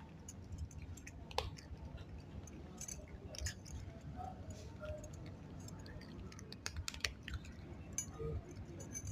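Cat chewing food, with irregular wet clicks and smacks of the jaws.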